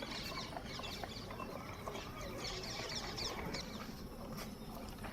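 Small birds chirping in quick, high, descending notes over steady background noise, most of them in the first three and a half seconds.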